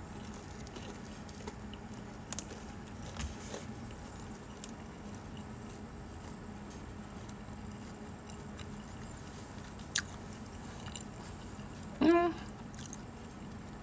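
A person quietly chewing a bite of vegan chicken nugget, with a few faint mouth clicks. About twelve seconds in comes one short voiced "mm" that rises in pitch.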